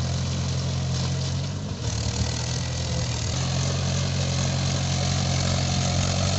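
Tractor engine running steadily, with a brief dip just before two seconds in.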